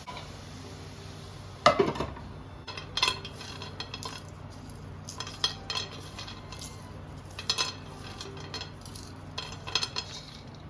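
Kitchen utensils clinking and scraping against cookware, as in stirring: a dozen or so irregular knocks, the loudest about a second and a half in. A faint steady low hum runs underneath.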